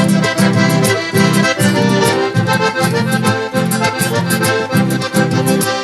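Accordion playing an instrumental passage of a traditional southern Brazilian song, with a regular beat of bass chords about twice a second.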